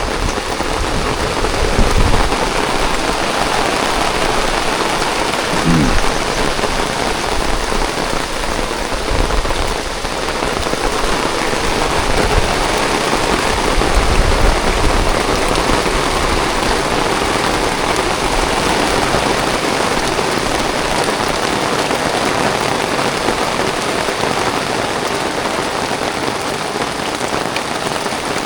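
Heavy rain falling steadily, a dense even hiss, with a couple of low rumbling swells, about two seconds in and again near the middle.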